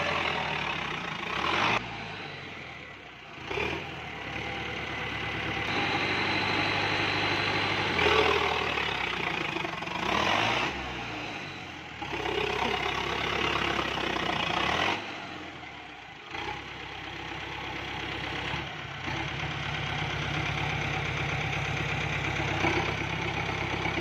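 Diesel engine of a small truck running and revving up and dropping back several times.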